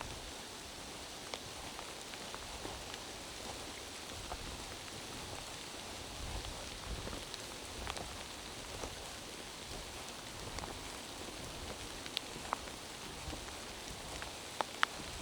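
Steady rain falling through a pine forest, with scattered individual drops ticking sharply on leaves and surfaces, a few louder ones near the end.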